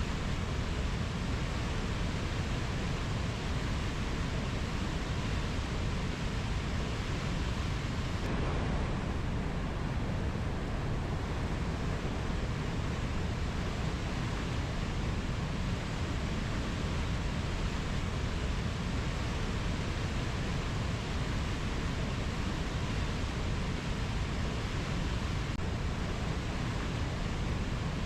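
Steady, even rushing noise of a rainforest ambience track, heaviest in the low end, with no distinct animal calls; its texture shifts slightly about eight seconds in.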